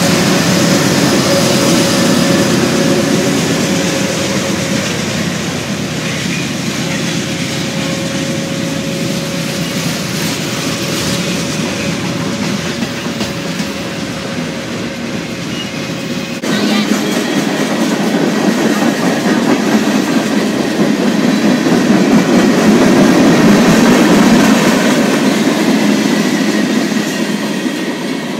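Freight train passing close by: the rumble and clatter of its boxcars, tank cars and hoppers rolling over the rails, with a thin steady whine through the first half. It gets louder about two-thirds of the way through, then eases off near the end.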